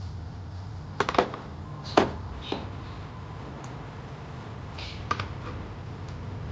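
A handful of sharp metallic clicks and taps from hand tools and parts being handled during a motorcycle steering-head rebuild. They come in small clusters about one, two and five seconds in, over a steady low hum.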